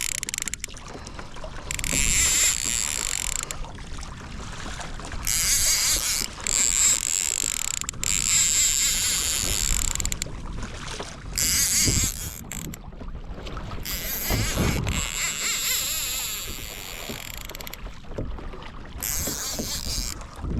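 Water rushing and splashing along a kayak's hull in repeated surges, each a second or two long, as a hooked kingfish tows the kayak.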